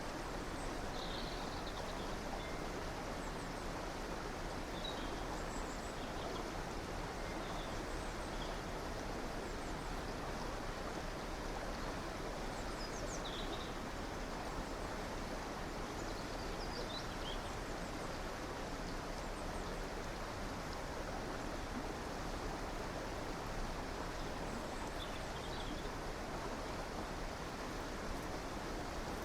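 A river or stream flowing steadily, with a few brief, scattered bird chirps over it.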